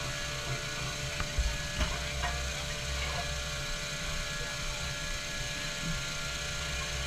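A steady low engine hum, with a few light clicks between about one and two seconds in.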